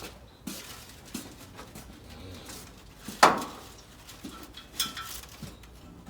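Scattered knocks and clicks, with one sharp clank about three seconds in and a smaller one near the five-second mark.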